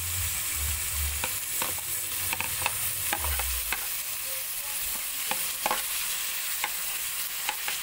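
Minced meat frying with a steady sizzle in a metal kadai as chopped tomatoes are pushed in, while a metal spatula scrapes and clinks irregularly against the pan and plate.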